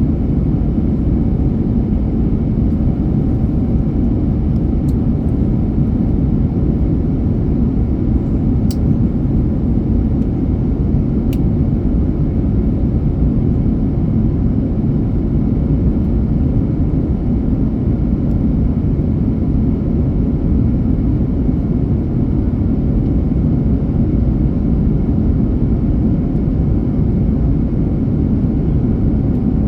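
Steady, even rumble of engine and airflow noise inside an airliner's passenger cabin in flight.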